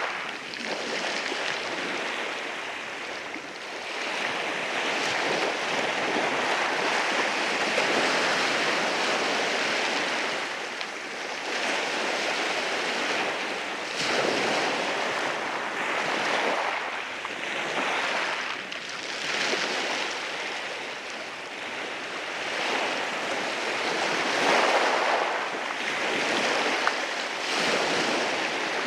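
Sea waves breaking and washing in over rocks, a continuous rushing hiss that swells and eases every few seconds as each wave comes in.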